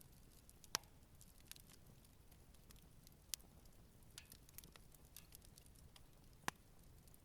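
Campfire burning gently, its wood crackling softly with scattered faint ticks and three louder sharp pops, about one second in, midway, and near the end.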